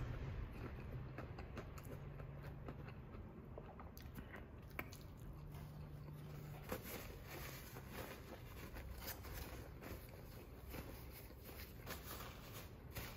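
A person chewing a mouthful of crispy fried chicken sandwich, with faint mouth sounds and small scattered clicks.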